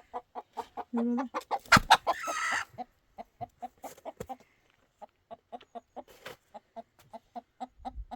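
Chickens clucking in a steady run of short clucks, about three to four a second, with one louder, higher squawk about two seconds in, just after a sharp knock.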